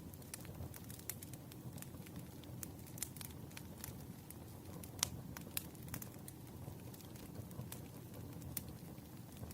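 Campfire crackling: scattered sharp pops and snaps over a low steady rumble of burning wood, with one louder pop about five seconds in.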